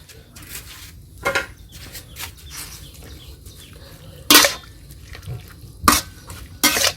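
Kitchen utensils and dishes clattering: a few sharp knocks and scrapes, the loudest about four and six seconds in, with lighter clicks between.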